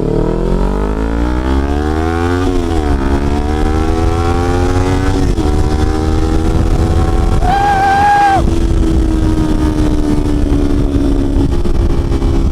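Kawasaki Ninja 400's parallel-twin engine accelerating through the gears: the revs climb, drop at an upshift about two and a half seconds in, climb again, drop at another shift around five seconds, then hold steady at cruising speed. A low wind rumble runs underneath, and a brief steady high tone sounds about two-thirds of the way through.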